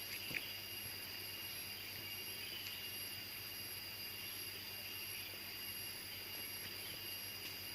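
Steady jungle ambience of insects droning in several constant high-pitched tones, with a couple of faint clicks near the start.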